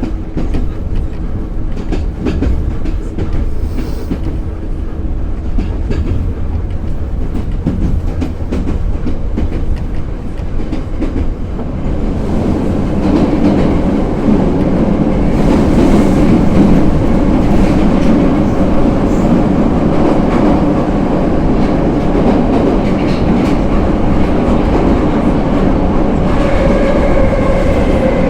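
Moscow Metro 'Nomernoy' (81-717/714) train running, its wheels clacking over the rail joints. The running noise grows louder about twelve seconds in, and a pitched whine comes in near the end.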